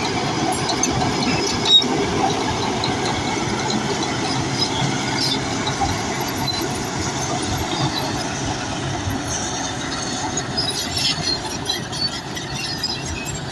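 Crawler bulldozer working, its engine running steadily as it moves on steel tracks, with scattered high squeals and clicks from the tracks.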